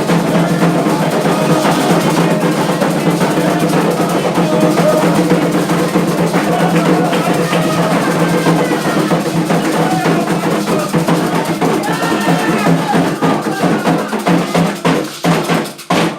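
Afro-Brazilian ritual drumming, atabaque-style hand drums and percussion, with voices singing over it. It breaks off near the end.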